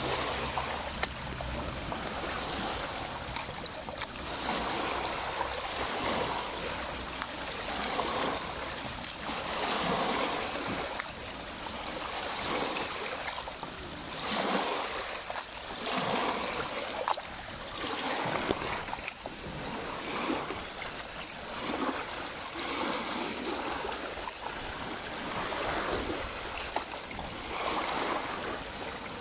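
Lake water lapping at the shore, a rushing wash that swells and falls back every second or two.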